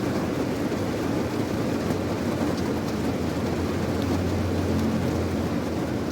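Steady rain with a deep low rumble underneath that swells about four seconds in.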